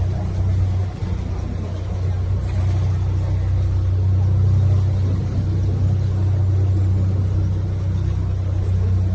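Canal tour boat's motor running steadily with a low drone, dipping briefly about a second in.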